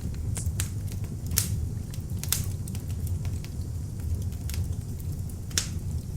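Beech logs burning in an open fireplace: the flames give a low, steady rumble, with irregular sharp crackles and pops from the wood, a few louder snaps among them.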